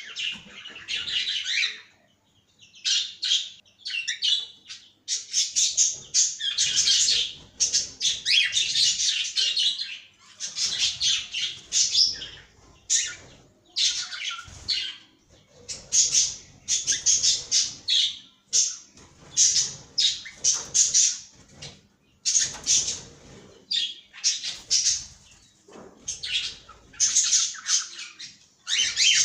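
Cockatiels chirping and squawking in quick runs of high-pitched calls with short pauses between them.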